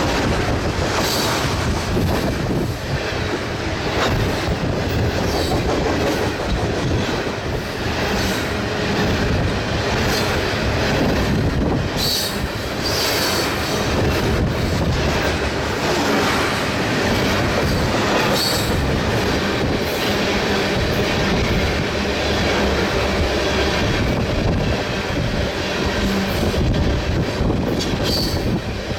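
Freight train passing at close range, its cars' wheels rumbling steadily over the rails, with brief high wheel squeals now and then.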